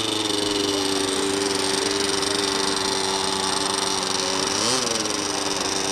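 Small model-aircraft engine running steadily at a high, even pitch, with a brief rise and fall in pitch near the end.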